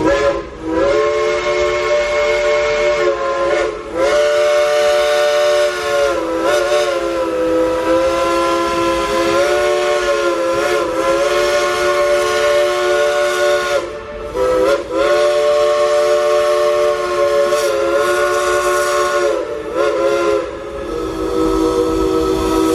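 Steam locomotive's Crosby three-chime whistle being played as a tune: a run of about six long blasts of the chord, the pitch sagging and bending as the engineer works the valve, with steam hiss behind it.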